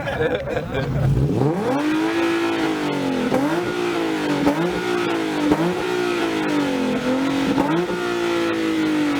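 Car engine and exhaust revved: the revs climb about a second in and are held high with several quick throttle blips, then ease back down near the end.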